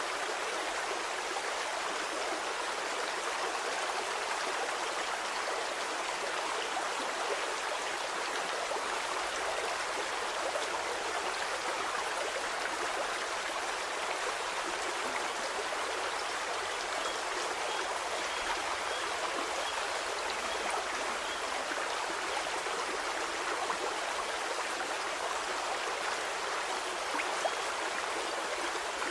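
A stream flowing steadily, with an even rush and babble of running water.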